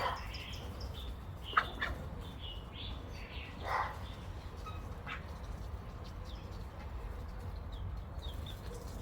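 A few short, scattered bird calls and chirps over a steady low background hum, with one sharp click about one and a half seconds in.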